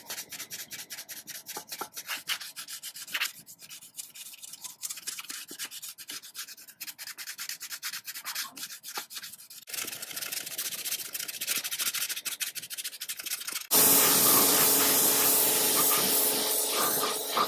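Hand sanding or scrubbing of a sewing-machine part in rapid back-and-forth strokes. About fourteen seconds in, a louder, steady sound with a low hum starts suddenly.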